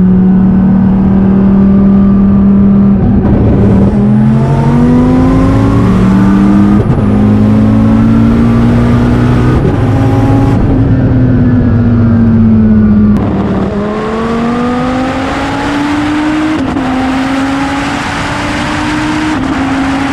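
Twin-turbo Dodge Viper V10 under acceleration, heard from the cabin: the engine note climbs in steps, broken briefly at each gear change of the air-shifted sequential gearbox, then falls away as it eases off. About two-thirds in, the sound switches to outside the car, quieter and with more wind noise, as the engine pulls and climbs in steps again.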